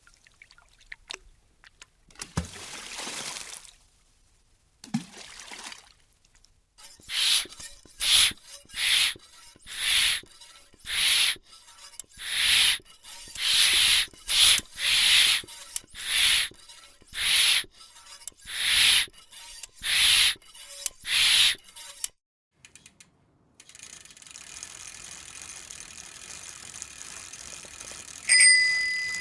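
A run of about fifteen short, evenly paced noisy strokes, roughly one a second, then after a pause a faint steady hiss and a single bell ding that rings out near the end.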